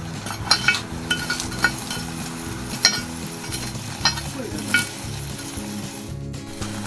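Wood fire crackling under a cast-iron Dutch oven: a steady sizzling hiss with irregular sharp pops, several close together in the first two seconds and a few more further on.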